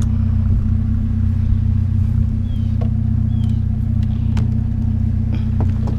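Vehicle engine idling steadily at an even pitch, with a few faint clicks and knocks.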